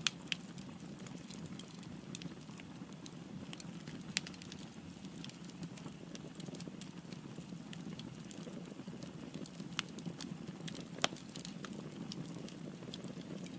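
Firewood burning in a fireplace: a steady low rumble of flames with irregular sharp crackles and pops, a few louder snaps among them.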